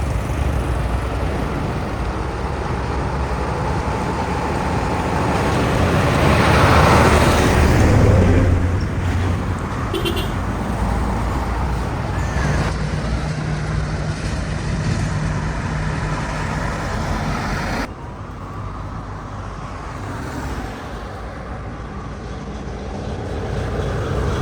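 Road traffic noise with a steady low rumble, swelling as a vehicle passes about seven seconds in, then dropping abruptly about eighteen seconds in.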